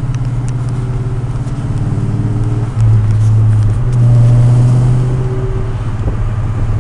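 2003 Mustang GT's 4.6-litre V8 running through long-tube headers, an off-road X-pipe with no catalytic converters and a Pypes Violator cat-back exhaust, with a deep, loud note. It idles, then gets louder for a couple of seconds in the middle before settling back.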